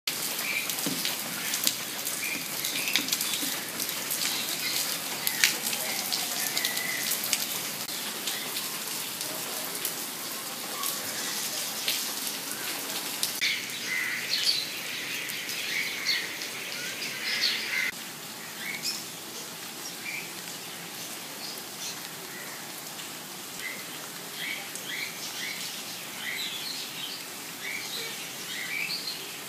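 Steady rain falling on leaves and ground, with sharp drips early on and birds chirping in short repeated calls throughout. The rain noise eases a little about eighteen seconds in, leaving the chirps more prominent.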